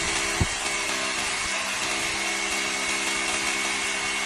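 Hukan K94 rotary hammer drill running steadily at its high speed setting, drilling one-handed into concrete, with a short knock about half a second in.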